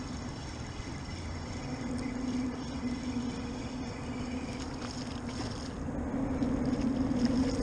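Steady low hum of a boat motor, holding one even pitch, over a haze of wind and water noise.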